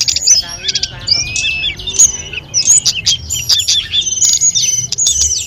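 Tledekan gunung singing a fast, varied song of sharp whistled notes, quick up-and-down slurs and short trills, one phrase straight after another.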